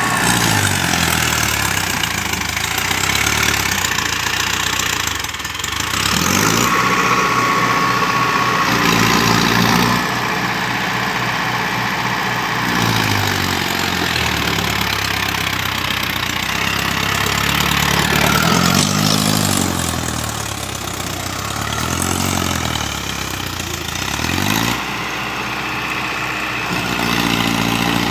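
Tractor diesel engine revving up and dropping back again and again, a few seconds each time, as it strains to pull a wheel sunk in sand free.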